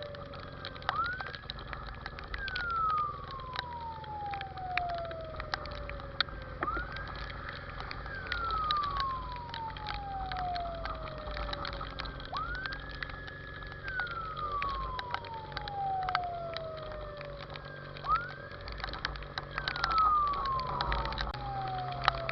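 Fire engine siren wailing in a slow cycle about every six seconds: each wail rises quickly, holds briefly, then glides down over several seconds, four times. Many sharp clicks and a steady low rumble run underneath.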